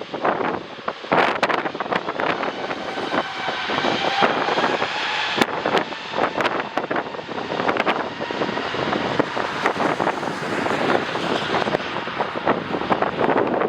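Jet airliner passing with the whine of its engines running through the middle, heard under heavy, gusty wind buffeting on the microphone.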